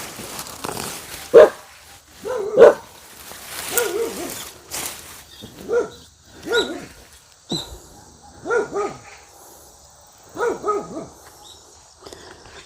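A dog barking repeatedly, in single barks and quick pairs, with short pauses between them.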